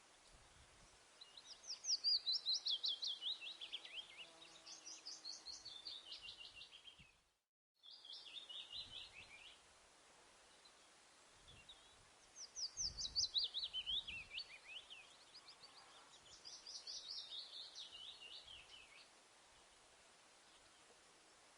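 A songbird singing five fast trilled phrases, each falling in pitch, with pauses between them; the sound drops out briefly in the middle of the run.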